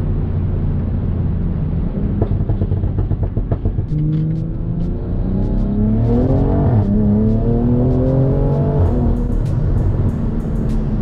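BMW M340i's turbocharged B58 inline-six engine accelerating: a steady low drone at first, then the pitch climbs from about four seconds in, drops sharply at a gear change near seven seconds, and climbs again.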